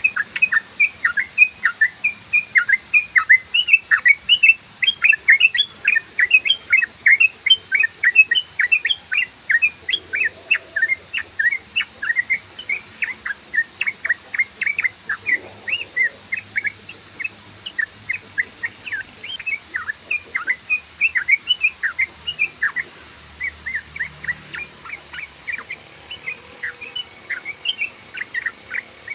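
Yellow-vented bulbul (trucukan) singing its rapid 'ropel' chatter: an unbroken string of short, bright, downward-slurred chirps, several a second.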